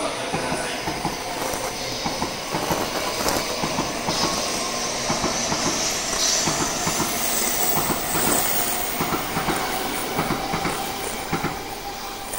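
Shinkansen train pulling out past the platform: a steady run of wheels on rail with dense clicking and a whine that rises slowly as it gathers speed, easing off a little near the end as the tail goes by.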